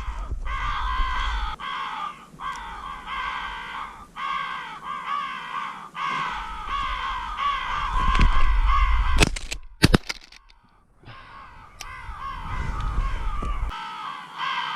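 Many crows cawing over one another. Two sharp shotgun shots come about nine and ten seconds in, after which the calling briefly stops before starting up again.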